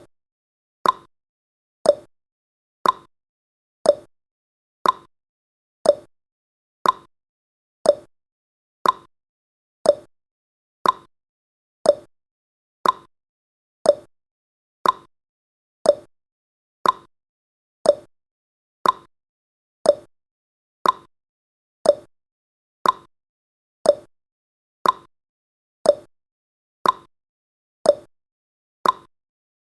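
Clock-tick sound effect of a countdown timer: short sharp ticks, evenly spaced at one a second.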